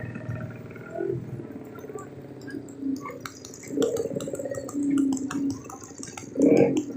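Drag bike engines revving in short pitched blips under a steady background of engine hum, with scattered sharp clicks.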